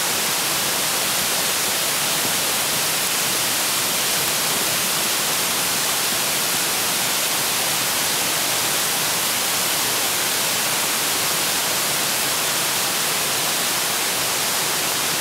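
Aodare Falls, a mountain waterfall, pouring: a steady, unbroken rush of falling water.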